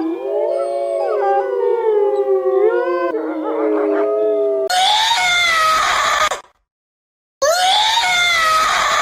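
A chorus of several dogs or wolves howling together, their long wavering howls overlapping at different pitches. After an abrupt cut, two loud, harsh animal cries follow, each lasting a second or two with a falling pitch, with a short silence between them.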